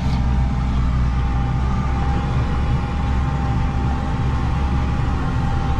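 Combine harvester running steadily, a constant low engine drone with a steady whine above it.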